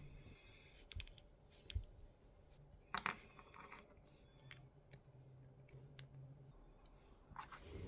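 Sparse light clicks and taps of small metal screws, tools and 3D-printed plastic parts being handled and worked by hand. A few sharper clicks fall about a second in and near three seconds in.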